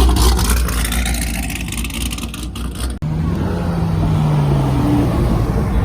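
Car engine running loudly with a heavy low rumble. After a cut about three seconds in, a steadier engine note falls slowly in pitch.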